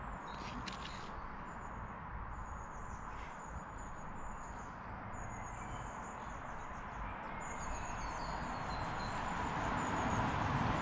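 Birds singing in the background, repeated short high chirps over a steady outdoor hiss, with two short sharp clicks in the first few seconds.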